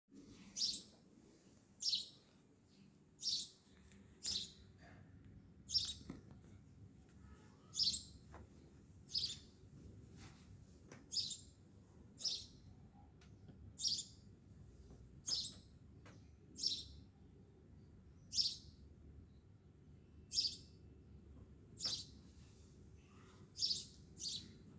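A bird chirping over and over, short high calls repeated roughly every second and a half, over a faint steady low background noise.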